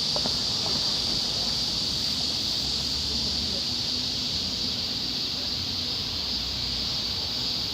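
Cicadas in a dense summer chorus: a steady, unbroken high buzz, with a low rumble underneath.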